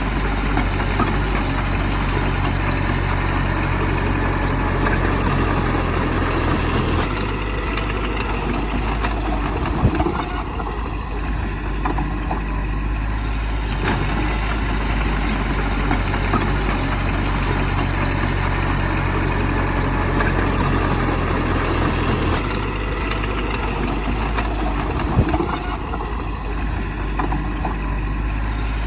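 Heavy diesel engine of earthmoving machinery running steadily, its note dropping and shifting for a few seconds twice, with a short knock about ten seconds in and another near the end.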